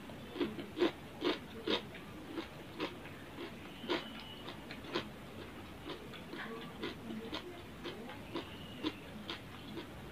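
Close-up eating sounds of a person chewing rice and grilled fish eaten by hand: irregular mouth clicks and smacks, a few a second, busiest in the first two seconds.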